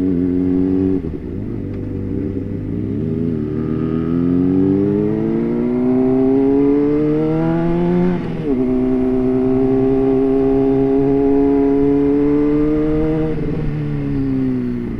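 Honda CBR600RR's inline-four engine accelerating on the road, its pitch climbing steadily, then dropping sharply at an upshift about eight seconds in. It holds an even speed before easing off near the end.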